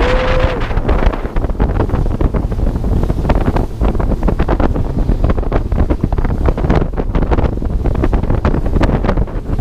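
Heavy wind buffeting the microphone on a jet ski at speed, with water noise and crackling under it. A short tone sounds right at the start.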